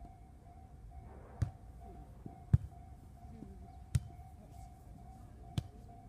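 A volleyball struck by hand four times in a rally: sharp single slaps about a second and a half apart, the second the loudest, over a faint steady hum.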